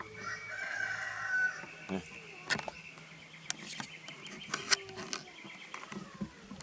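A rooster crows once, a long call in the first second and a half. Several sharp clicks and knocks follow, the loudest a little under five seconds in.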